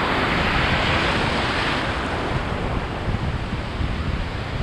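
Ocean surf washing around a person standing in the waves, with wind on the microphone. A wave's rush swells in the first second or two and then eases off.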